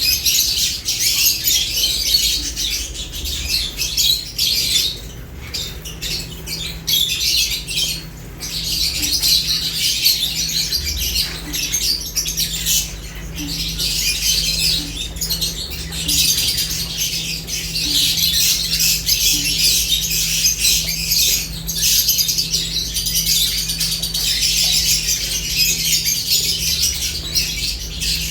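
A group of lovebirds chirping and chattering together: a dense, continuous high-pitched twittering with a few brief lulls.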